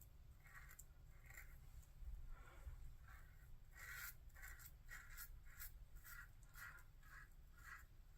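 Merkur 34C double-edge safety razor scraping through lathered stubble in short, faint strokes, about two a second and more regular in the second half.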